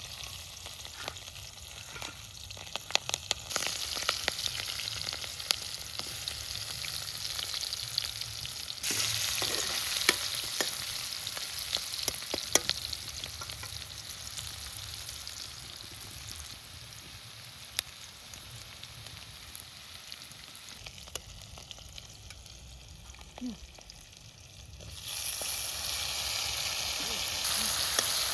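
Food frying and sizzling in a cooking pan as the curry is cooked, with scattered sharp clicks of a utensil against the pan. The sizzle grows louder about a third of the way in and again near the end.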